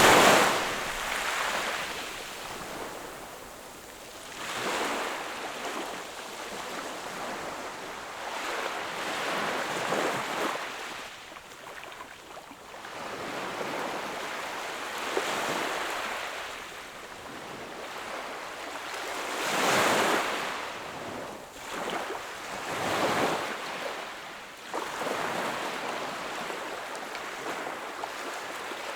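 Sea waves breaking and washing onto the shore, one swell of surf after another every four to six seconds. The biggest washes come at the start and about two-thirds of the way through.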